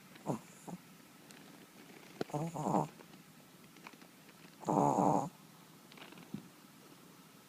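Yorkshire terrier snoring in its sleep: a snore on each breath, about every two and a half seconds, the loudest about five seconds in.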